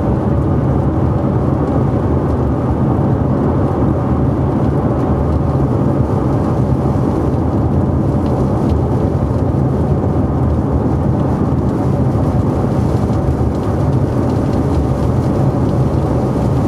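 Steady low rumble of wind and road noise from a car driving on a wet road, picked up by a GoPro mounted on the outside of the car.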